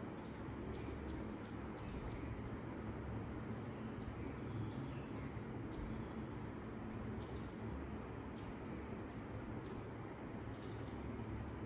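Steady low room hum with short, high, falling bird chirps scattered irregularly through it.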